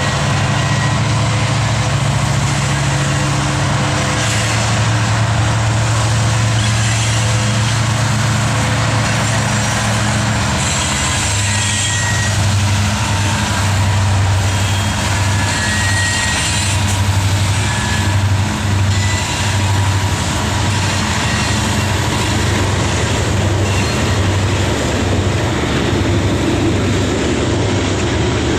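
Slow Norfolk Southern ballast train passing close by: a loud, low diesel drone that shifts pitch twice. In the second half it pulses about once a second as the cars roll over jointed rail.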